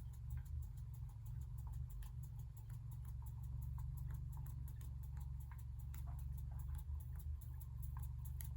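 Small Jensen #35 live steam engine running slowly on low heater power, with a fast, even ticking over a steady low hum.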